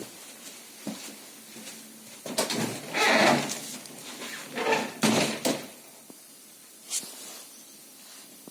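Handling noises from work on a KNORR brake caliper: metal parts and tools clattering and scraping in two longer bouts about three and five seconds in, with single sharp clicks about a second in and near the end.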